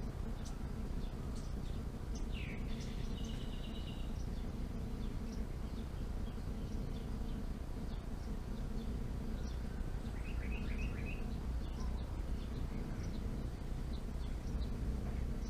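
Wild birds chirping: scattered short high calls, a brief falling note and trill a few seconds in, and a quick run of four notes midway, over a steady low rumble of outdoor background noise.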